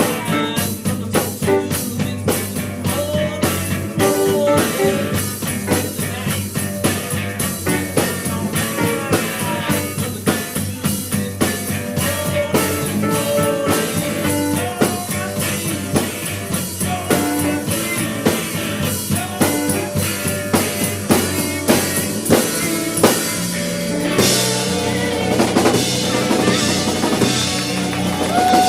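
Live rock band playing an instrumental passage: a drum kit keeps a fast, busy beat with snare and rimshots over bass and guitar, and the cymbals grow busier near the end.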